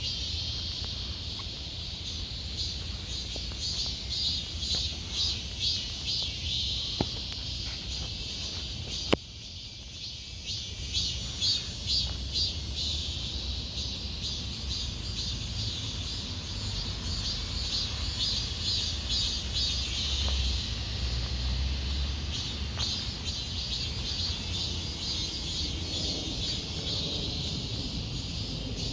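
Insects chirping in a steady chorus of fast, pulsing trills, with a low rumble underneath. Two sharp clicks come about a third of the way in.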